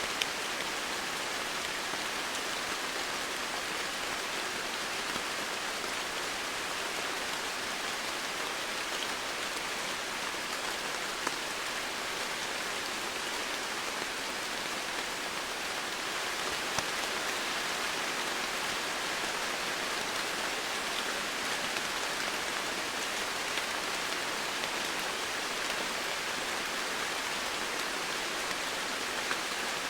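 Steady heavy rain falling on foliage and ground, an even hiss with an occasional individual drop tick.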